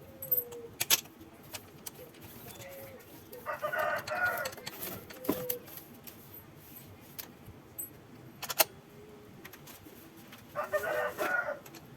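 A rooster crowing twice, once about three and a half seconds in and again near the end, with sharp clicks scattered in between.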